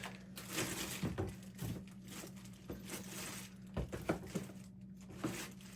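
Rummaging through a trash can: scattered light knocks, clicks and rustling as items are moved about, over a steady low hum.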